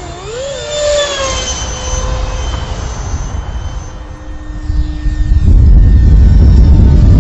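Twin 70 mm electric ducted fans of a model F-22 jet whining in flight, the pitch falling as it passes about a second in. A loud low rushing noise takes over from about five and a half seconds.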